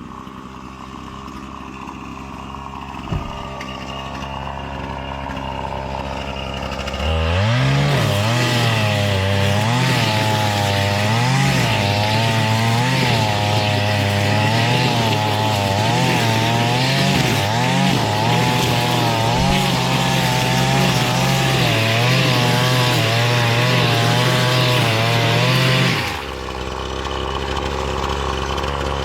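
Gas string trimmer (weed eater) engine running. It is quieter for the first several seconds, then opens up at about seven seconds in, its pitch wavering up and down as it cuts grass. Near the end it drops back toward idle.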